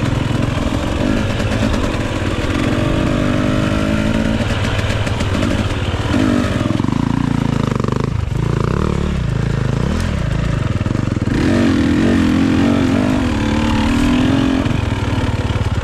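Enduro dirt bike engine under way, its revs rising and falling over and over as the throttle is worked.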